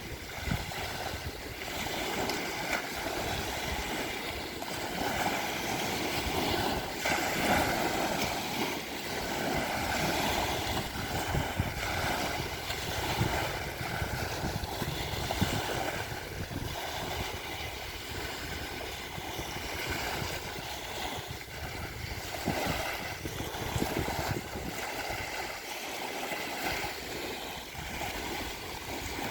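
Surf on the Sea of Azov: small waves breaking and washing onto the shore in a steady wash that swells and eases every few seconds, with some wind on the microphone.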